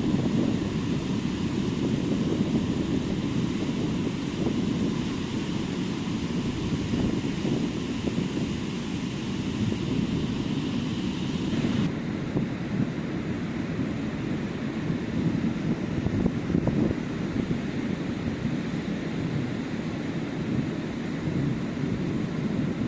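Wind rumbling on the microphone over the steady wash of ocean surf on a beach. The higher hiss drops away suddenly about halfway through.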